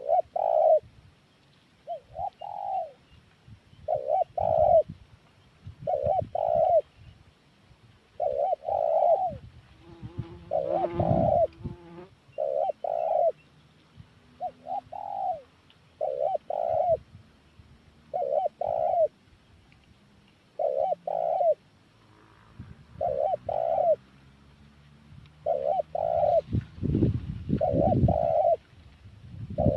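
Spotted dove (tekukur) cooing: short two-note phrases repeating about every two seconds. Low rumbling noise comes in briefly about a third of the way in and again near the end.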